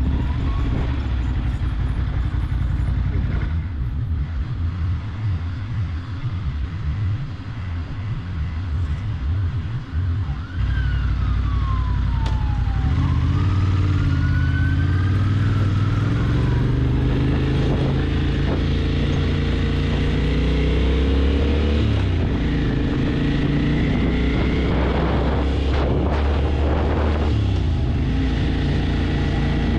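Motorcycle engine running on the move, with wind rumble for the first ten seconds or so. After that the engine note comes through clearly, rising and falling several times as it revs up and drops back.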